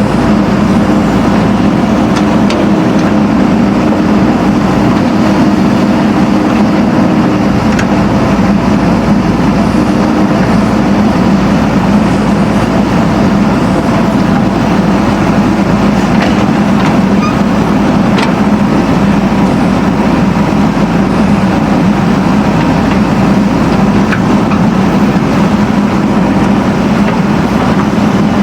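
Backhoe loader's diesel engine running steadily with a constant hum and no change in pitch.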